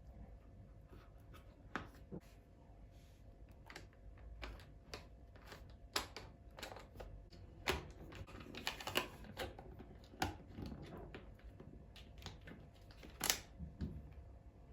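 Kitchen handling sounds: scattered light clicks, taps and knocks of utensils and containers, with a brief rustle about eight seconds in.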